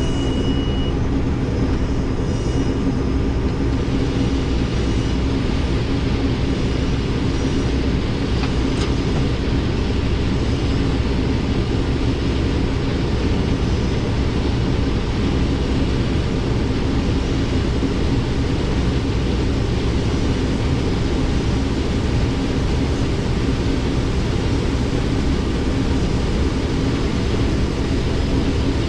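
Combine harvester running steadily under load, rotor and fan turning: a constant machine drone with a steady low hum. A high steady beep sounds during the first second.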